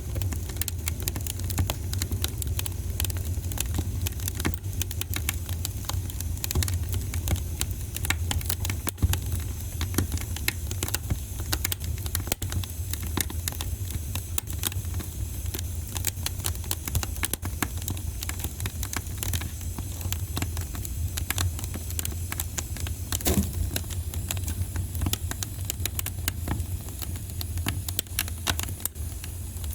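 Wood fire burning in a fireplace, crackling with many small pops over a steady low rumble; one louder pop about three-quarters of the way through.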